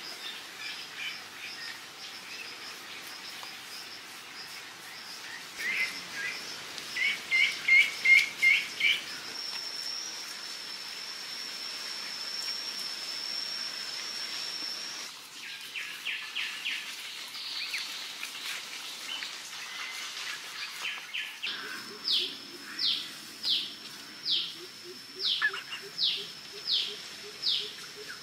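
Forest birds chirping and calling, with a steady high-pitched drone for about five seconds in the middle. From about two-thirds through, a bird repeats a sharp falling call about once a second.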